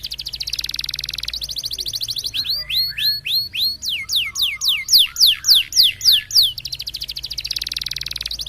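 Domestic canary singing in the roller style: a very fast high trill, then a run of loud downslurred whistled notes at about three a second, then the fast trill again about seven seconds in.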